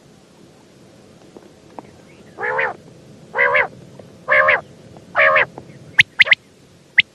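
Common quail calling: four harsh, throaty notes about a second apart, then a quick burst of three short, sharp high-pitched notes near the end.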